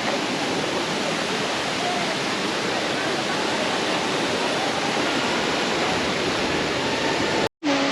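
Waterfall's steady rush of falling water, cutting out for an instant near the end.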